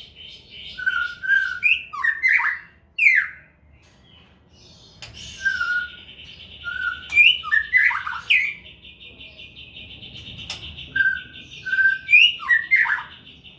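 White-rumped shama (murai batu) singing, repeating the same short phrase of clear whistled notes three times. From about midway a steady high buzz runs underneath.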